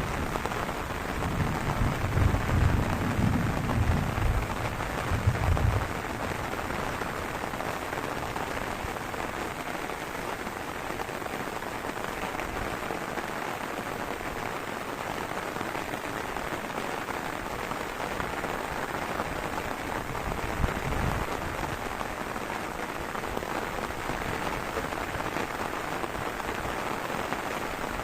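Heavy rain falling steadily as a dense, even hiss. Low rumbles come and go during the first six seconds and return briefly about twenty seconds in.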